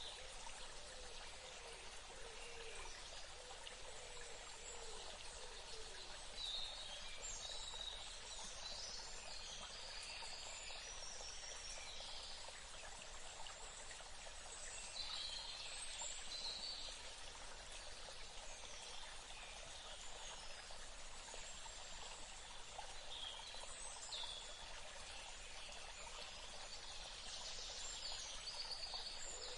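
Outdoor nature ambience: a steady hiss of flowing water under birds calling in short high trills and chirps every few seconds.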